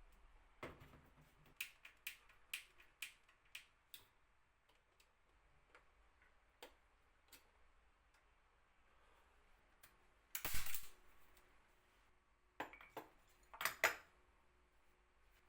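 Light clicks and taps of hand tools or small hardware being handled on a workbench, with two louder clatters about ten and a half and fourteen seconds in.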